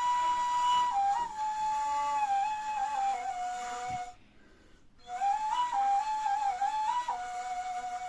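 Solo flute-like wind instrument improvising a taksim in the Hüseyni makam: a single melodic line with held notes and small slides between pitches. It breaks off for about a second midway, then resumes.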